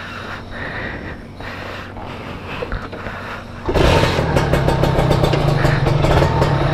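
Kawasaki Ninja RR150's two-stroke single-cylinder engine starting up a little over halfway through, then running steadily at idle.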